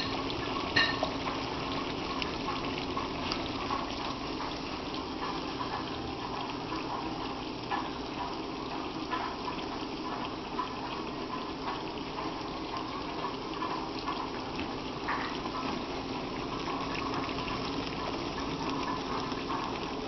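Pot of spaghetti boiling in water: a steady bubbling hiss with small pops scattered throughout.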